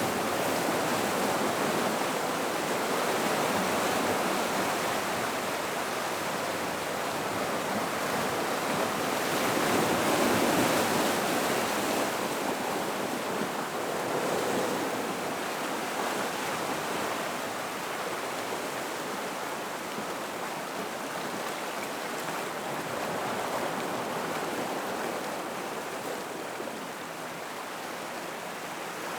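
Gentle ocean waves washing into a rock pool: a steady wash of sea water that swells and eases every few seconds, getting slightly quieter toward the end.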